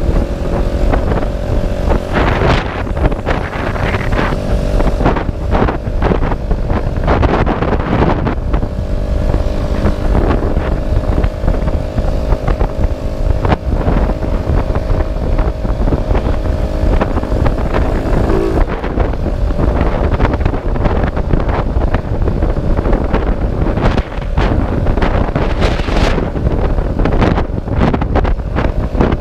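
Motorcycle engine running at a fairly steady speed while riding, with heavy wind buffeting on the microphone.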